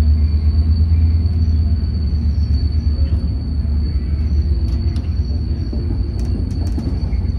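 Steady low rumble of a diesel Trinity Railway Express commuter train heard from inside the passenger car as it pulls out of a station, with a faint steady high whine above it.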